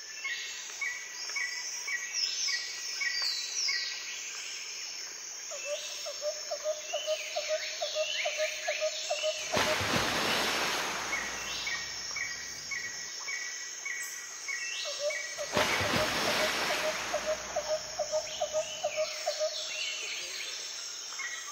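Birds chirping and calling, with a quick run of repeated short notes and a slower pulsed low call. Two swells of rushing noise come about ten and sixteen seconds in.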